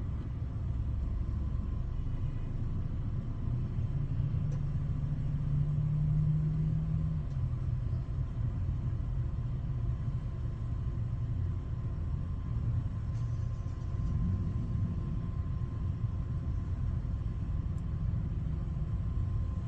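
Steady low mechanical rumble of a Ryko Softgloss MAXX 5 soft-touch automatic car wash running, with a hum that strengthens about four seconds in and drops away about three seconds later.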